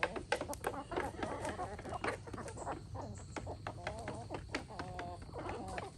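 Chickens clucking, with a few short wavy calls, over many quick clicks and taps.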